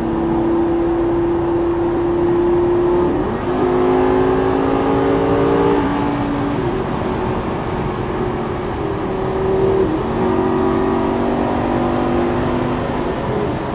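Lamborghini Gallardo LP560-4's V10 engine pulling under acceleration, its note climbing slowly in pitch, then breaking and dropping at gear changes about three seconds in and again near ten seconds.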